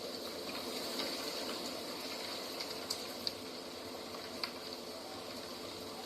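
Steady outdoor nature ambience: an even rushing noise with a thin high hiss above it, and a few short sharp clicks a little past the middle.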